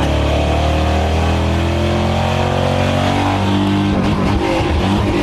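Car engine under hard acceleration on a drag-strip pass, heard from inside the cabin. The pitch climbs steadily, drops with a gear change about four seconds in, then climbs again.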